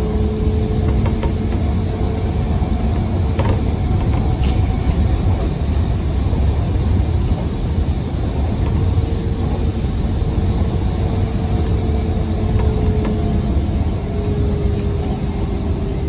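Hanshin Railway Jet Car commuter train running at speed, heard from the driver's cab: a steady low rumble of wheels on rail, with a faint steady hum that drops out a few seconds in and comes back about halfway through. A single sharp click about three and a half seconds in.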